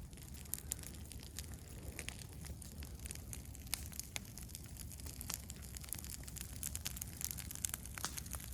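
Chickens pecking at scattered feed, making irregular sharp clicks and crunches over a steady low rumble.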